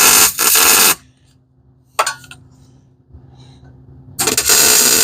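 MIG welder laying tack welds on an exhaust pipe: two bursts of arc noise about a second each, one at the start and one about four seconds in, with a short sharp click about two seconds in, over a steady low hum.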